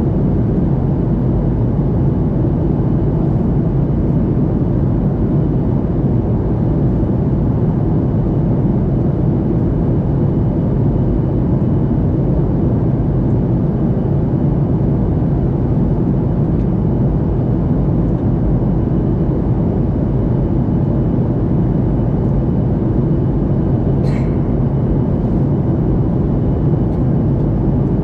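Airliner cabin noise: a steady, loud low rush of engines and airflow, with a faint steady high tone above it. A couple of faint clicks come near the end.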